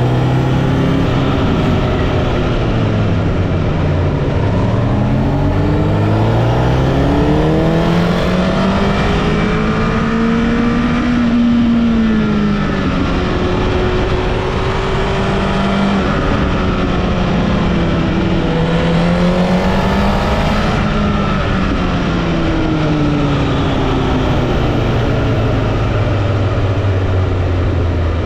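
Honda CBR1000RR Fireblade (SC77) inline-four engine heard from onboard, its pitch rising and falling again and again as the throttle is opened and closed through a run of bends. A steady rush of wind and road noise runs underneath.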